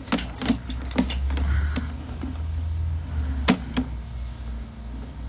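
Irregular sharp knocks and clicks, about six of them, over a low rumble that swells for a couple of seconds in the middle: handling noise from a sewer inspection camera's push cable being fed into the pipe.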